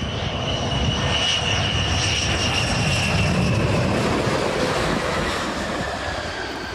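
Airplane engine noise as an aircraft passes, building to its loudest about halfway through and then fading, with a high whine that slowly falls in pitch.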